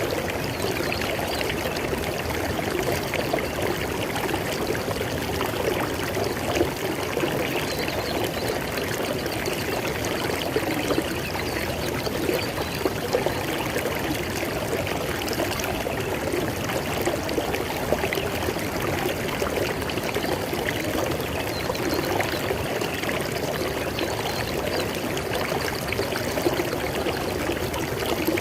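River water flowing steadily over rocks, a continuous rushing and splashing with fine bubbling detail and no pauses.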